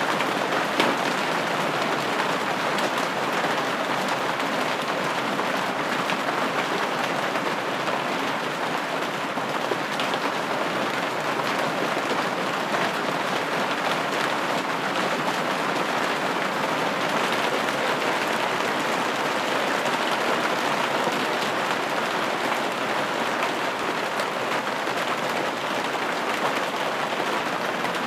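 Steady rain pattering against a window pane, an even hiss with fine scattered drop ticks and no change in intensity.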